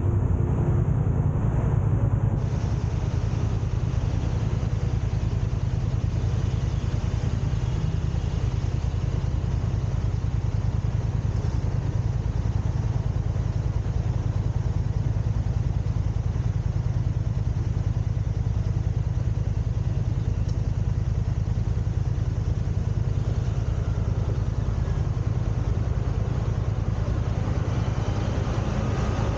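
Steady low road and engine noise of a car being driven, an even rumble with no distinct events.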